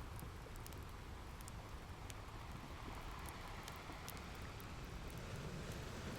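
Fireplace fire crackling, with scattered sharp pops and ticks, over a steady low rumble of ocean surf.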